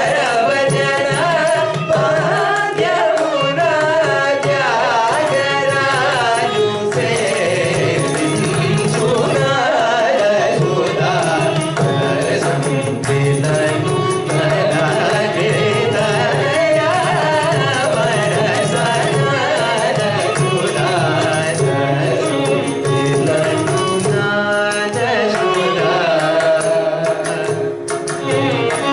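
Carnatic vocal music: singing with a melodic line over a steady low drone, accompanied by mridangam drumming.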